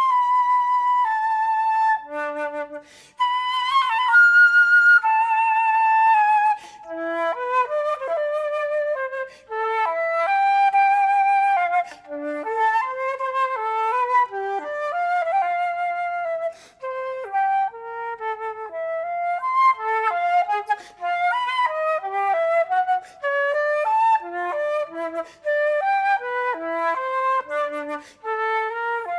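Concert flute played unaccompanied: a few long notes with vibrato, then quick running passages of short notes, broken by short pauses.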